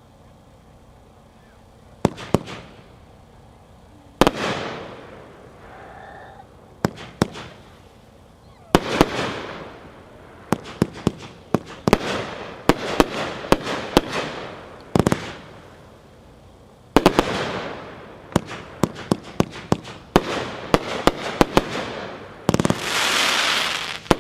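Magnus 'Glamping' consumer firework cake firing its shots: sharp reports, sparse at first and then in rapid runs, with crackling trailing after the bursts. A long, loud crackle comes near the end.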